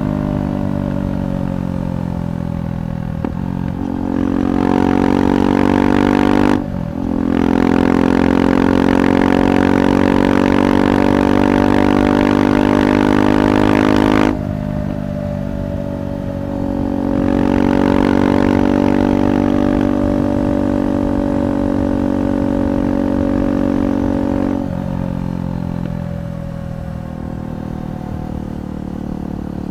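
KTM 390 Adventure's single-cylinder engine exhaling through a Red Rooster aftermarket exhaust, ridden under load. It opens up about four seconds in, dips briefly about six seconds in as for a gear change, and pulls hard until the throttle is shut about fourteen seconds in. It picks up again a couple of seconds later and eases off near the end.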